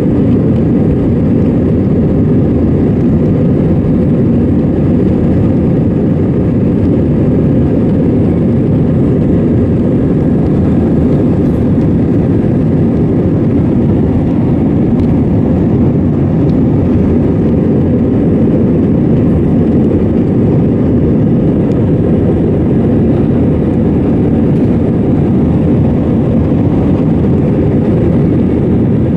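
Airbus A320 jet engines and airflow running steadily, heard from inside the passenger cabin as an even, loud, deep noise.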